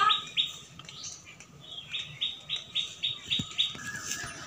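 A bird calling a rapid series of short, high chirps, about four a second. One run sounds at the start, and a longer run begins about two seconds in.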